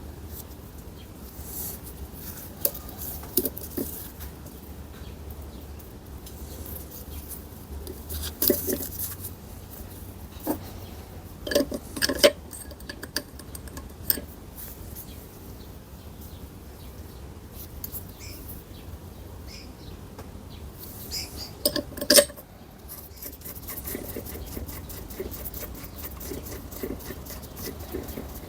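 Steel gearbox parts clinking and knocking as they are handled and taken apart: scattered metal clinks with short rings, in clusters around a third and three quarters of the way through.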